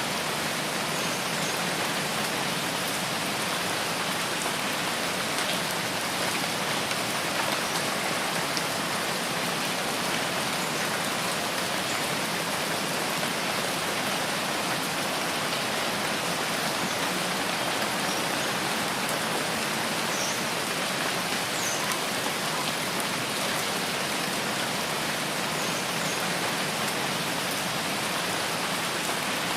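Steady rain falling in a rain forest, a continuous even hiss that does not change.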